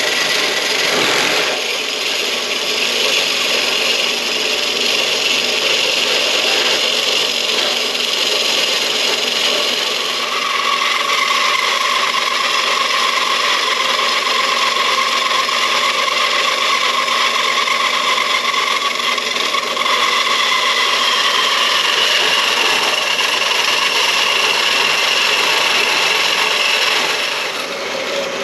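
Bandsaw blade cutting through stainless steel exhaust tubing: a steady, grinding cut with a ringing whine whose pitch shifts a little as the blade works through. The sound drops slightly near the end.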